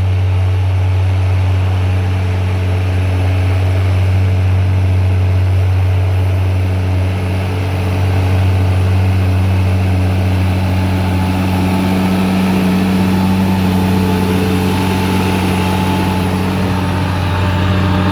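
Deutz-Fahr 6175G tractor's six-cylinder diesel engine running steadily, a deep even drone that strengthens somewhat in the second half.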